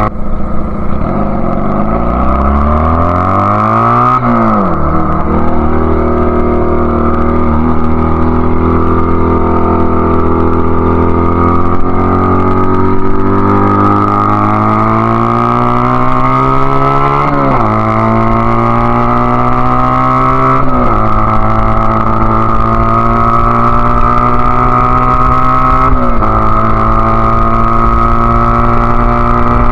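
Honda Rebel CA125's single-cylinder four-stroke engine with an aftermarket BSM/Highway Hawk exhaust, accelerating under way. Its pitch climbs and drops sharply with four upshifts, about four seconds in, then near the middle, shortly after, and again toward the end.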